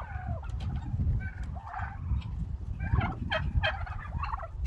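A flock of domestic turkeys calling, with short gobbles and yelps one after another and overlapping, a quick rattling run of calls a little past the middle, over a steady low rumble.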